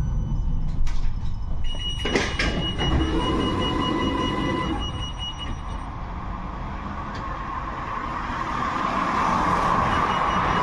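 71-628-02 tram running between stops: a steady rumble of wheels on rail with a few sharp knocks in the first couple of seconds and thin steady high whining tones. The running noise dips briefly, then grows louder near the end.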